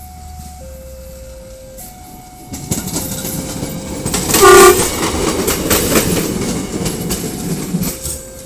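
A KAI track-measuring railcar passes close by, its wheels clattering over the rails, with one short horn blast about halfway. A level-crossing alarm's alternating two-note chime sounds at first, is drowned out as the car passes, and comes back near the end.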